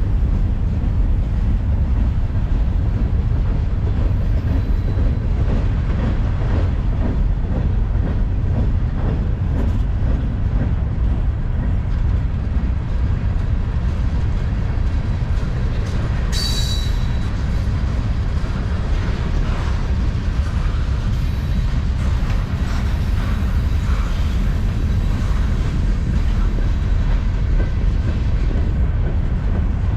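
Freight cars of a long mixed freight train rolling past, with a steady heavy rumble and faint clicking of wheels over the rail joints. A short high-pitched wheel squeal comes about halfway through.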